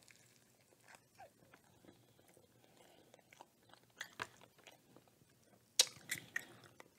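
A person chewing a mouthful of fried chicken sandwich: soft, scattered chewing clicks and crunches, with a few sharper crunches about four and six seconds in.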